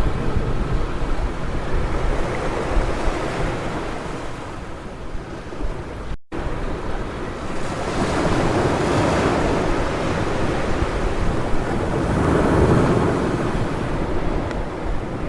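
Ocean surf washing onto a beach: a steady rush of noise that swells twice in the second half as waves break, with wind rumbling on the microphone. The sound cuts out for a split second about six seconds in.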